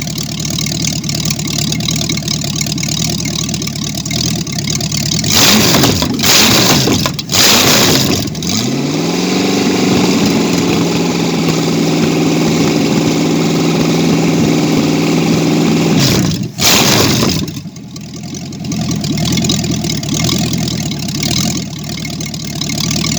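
Ford 302 small-block V8 idling, then revved twice in quick blips about five seconds in. It then climbs and holds a steady raised speed for about six seconds, gives one more short blip, and drops back to idle.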